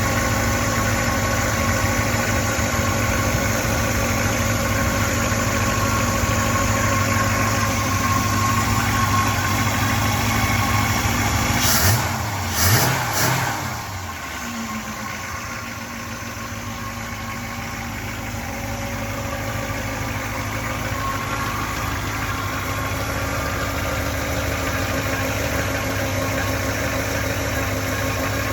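1967 Pontiac Grand Prix V8 engine idling steadily, then revved twice in quick succession about twelve seconds in before settling back to a quieter idle.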